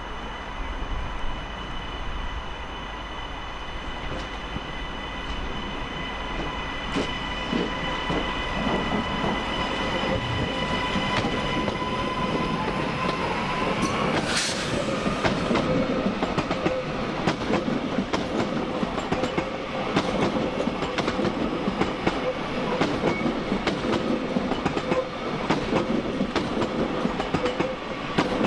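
A train moving through a station platform: a steady whine with the clack of wheels over rail joints growing louder and more frequent as it comes closer. There is a short sharp rising squeal about halfway through.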